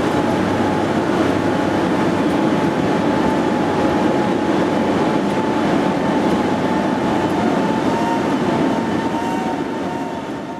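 Train running past: a dense, steady rumble of wheels and machinery with a steady whine above it, fading away near the end.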